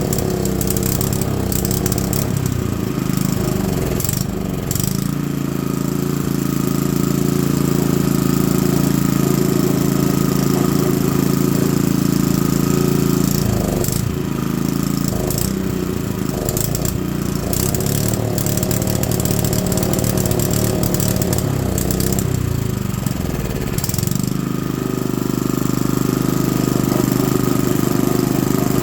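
Honda GX110 single-cylinder four-stroke engine running steadily. Its speed sags and picks back up three times: a few seconds in, about halfway through, and about two-thirds of the way through.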